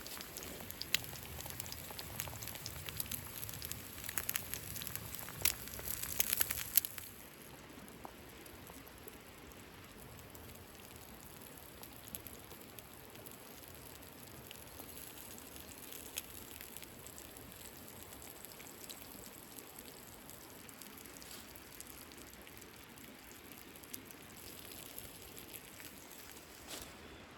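Campfire crackling: a busy run of sharp pops and snaps over a steady hiss for about the first seven seconds, then a quieter hiss with only an occasional pop.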